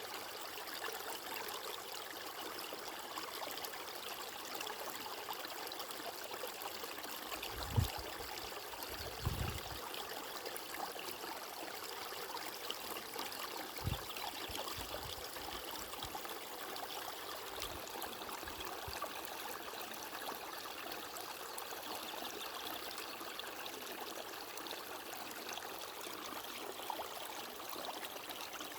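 Steady rushing and trickling of a flowing stream. A few dull low thuds come in between about 8 and 14 seconds in.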